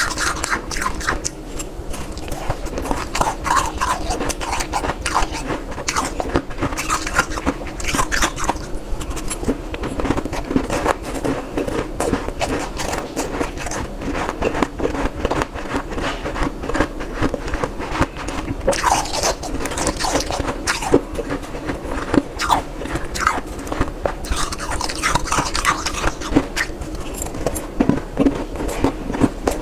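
Ice being bitten and chewed, a dense run of crunching and crackling that keeps going without a break.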